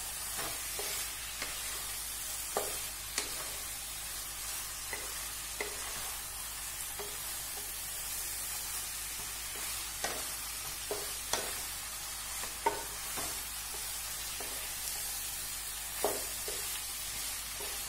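Chicken drumsticks sizzling in oil in a nonstick kadai while a spatula stirs and turns them in the masala, with scattered knocks and scrapes of the spatula against the pan.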